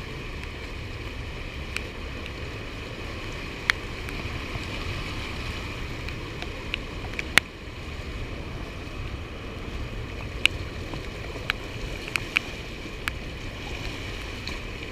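Steady rush of water pouring through a dam spillway, with a low rumble and a handful of sharp clicks scattered through.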